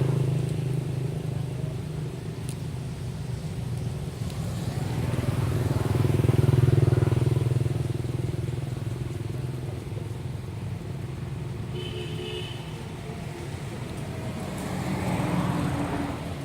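Motor vehicles passing on the road, their engines swelling and fading as each goes by, three times. A brief high-pitched tone sounds about three-quarters of the way through.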